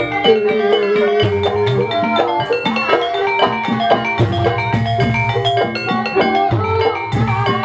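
Banyumas ebeg accompaniment music: pitched struck gamelan-type percussion playing dense, fast interlocking melodic patterns over hand-drum strokes.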